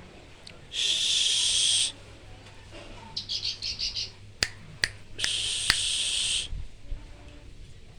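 A songbird singing: two long, harsh buzzy notes of about a second each, with a quick run of five or six short chirps between them. A few sharp clicks fall just before the second buzzy note.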